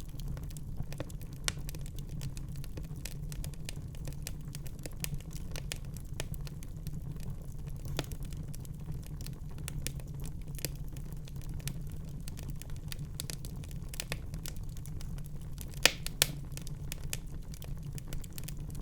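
Wood fire crackling in a fireplace: a constant scatter of small crackles over a steady low rumble, with two sharp louder pops close together about three-quarters of the way through.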